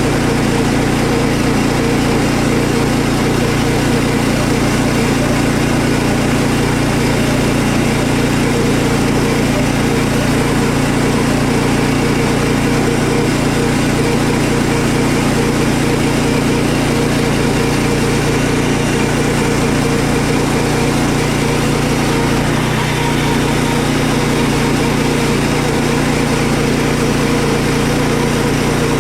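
Portable sawmill's small engine running steadily as the saw cuts through a pine log to make lap siding.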